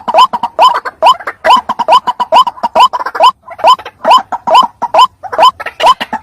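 White-breasted waterhen (ruak-ruak) calling: a fast, steady run of short harsh notes, about three to four a second, each with a sharp upward hook, as used in a bird-lure recording.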